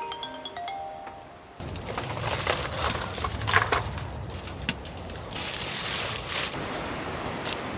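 Soft mallet-instrument music stops abruptly about one and a half seconds in. Dense rustling and crunching follow, with scattered sharp clicks and a low rumble underneath.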